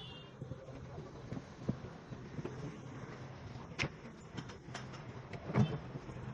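Irregular light knocks and clicks over a steady low hum, with a sharper knock a little before the middle and the loudest one near the end.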